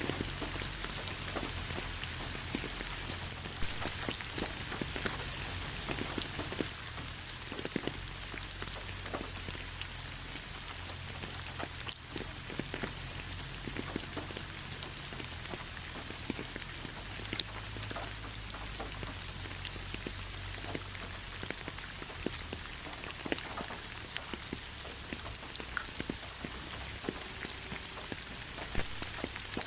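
Steady rain falling, with many individual drops ticking sharply on a surface over a constant hiss.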